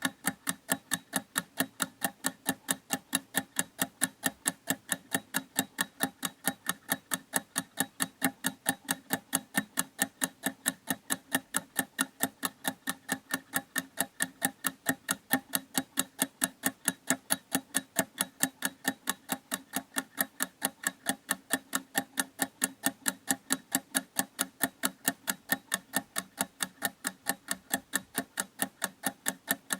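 A clock ticking at a steady, even pace, several sharp ticks a second.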